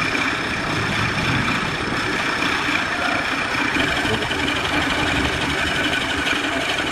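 Wood lathe running steadily, its motor giving a constant whine over a dense rushing noise.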